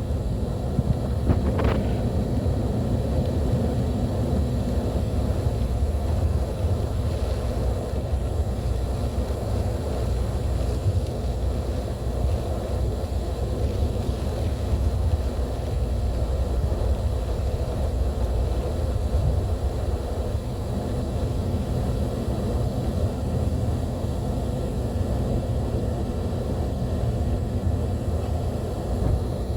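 Steady low rumble of a vehicle on the move, with a short click about two seconds in.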